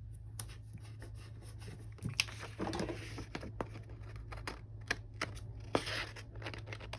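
Paper and stickers being handled on a journal page: light rustling with scattered small taps and clicks, and two longer rustles about two and a half and six seconds in, over a low steady hum.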